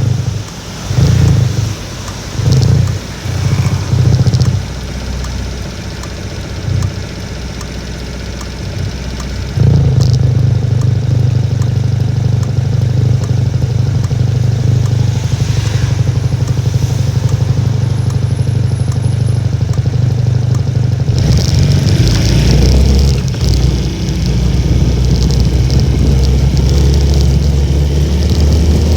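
Strong wind buffeting the microphone while riding a Honda Little Cub, a small single-cylinder four-stroke motorcycle, with its engine running underneath. The low rumble comes in separate gusts over the first few seconds, then turns into a steady heavy rumble about ten seconds in.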